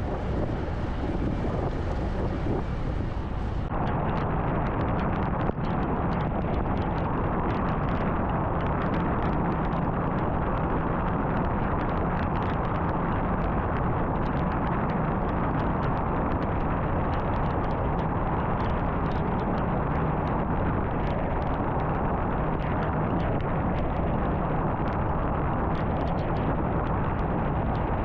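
Car driving at highway speed: steady road and wind noise. The sound turns duller abruptly about four seconds in, and faint light ticks run through it after that.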